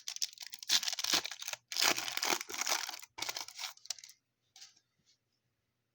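A baseball card pack wrapper being torn open and crinkled in the hands: a run of irregular crackling rustles that stops about four seconds in, with a couple of small rustles just after.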